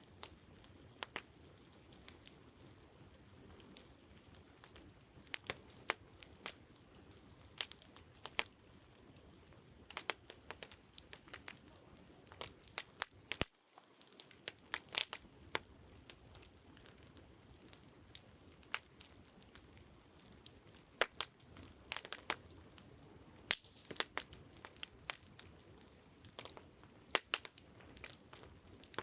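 Wood campfire crackling, with irregular sharp pops over a steady low hiss.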